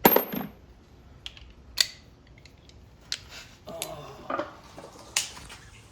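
Metal hand tools and hardware clinking and clicking as they are handled: several separate sharp clicks and a short rattle about two-thirds of the way through.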